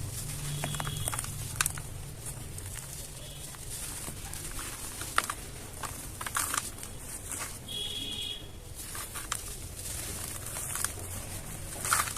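Dry, crispy red dirt shapes crumbling and being crushed: scattered crackles and short gritty crunches, a few of them sharper and louder than the rest.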